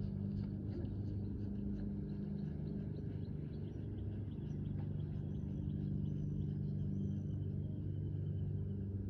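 Steady low engine hum from a running motor vehicle, with quick light rhythmic ticks, about three a second, over the first few seconds.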